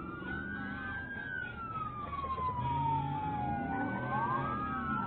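Emergency-vehicle sirens wailing, their pitch sweeping slowly up and down. Two or more sirens overlap near the end, over a low rumble of vehicle noise.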